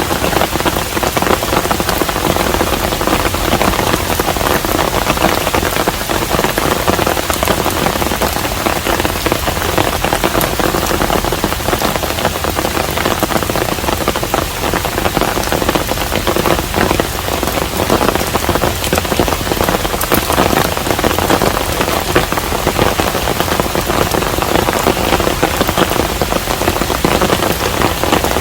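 Steady rain falling on a hanok, a traditional Korean house: a dense, even patter of many drops.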